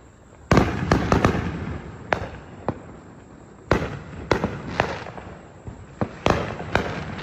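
Consumer fireworks going off all around the neighbourhood: a run of sharp bangs and cracks, some close and some farther off, each with an echo behind it. The first loud cluster comes about half a second in.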